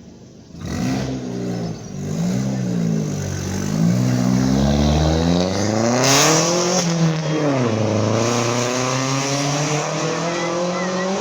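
Car engine revving: it comes in suddenly about a second in, then its pitch rises and falls several times, climbing highest about seven seconds in before dropping back. A short sharp burst of hiss comes just before the peak.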